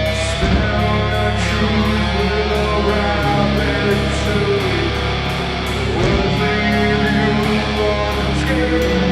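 Heavy metal band playing live: loud distorted electric guitars holding long notes over steady bass, with a regular cymbal beat.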